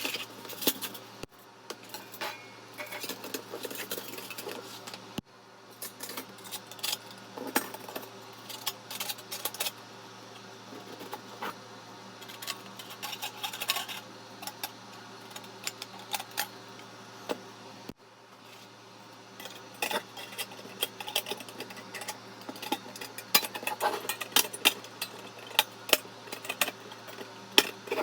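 Metal parts of a fire pit stand clinking and clattering as they are handled and fitted together, in irregular runs of sharp clicks, over a steady low hum. The sound breaks off abruptly a few times.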